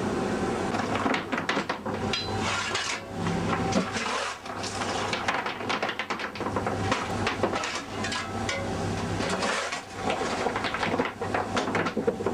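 Irregular knocks and clanks, some close together, over a steady low hum.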